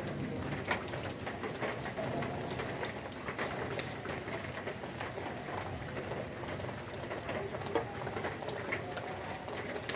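Steady rain falling, with many individual drops ticking sharply and a couple of louder drips standing out.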